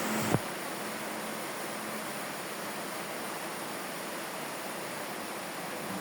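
Steady rain falling, an even, constant hiss. A single sharp click sounds just after the start.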